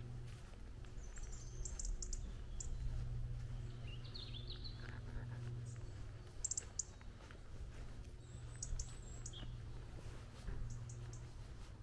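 Small songbirds calling with short, high chirps and twitters now and then, over a steady low rumble.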